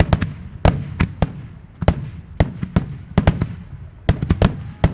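Aerial firework shells bursting in a rapid finale barrage: sharp bangs about three a second at uneven spacing, each with a short echoing tail.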